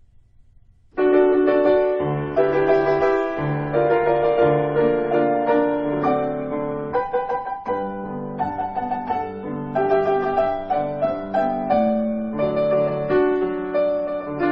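Solo piano music that starts about a second in after a faint hiss, playing a melody over low chord notes.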